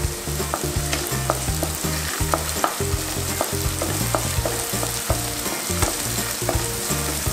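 Chopped garlic, ginger and green chilli sizzling in hot oil in a nonstick pan while being stirred with a wooden spatula, which clicks and scrapes against the pan every so often.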